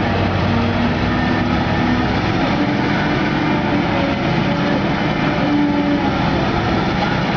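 Heavy construction machinery at work: large diesel engines running under load, their note shifting up and down every second or so.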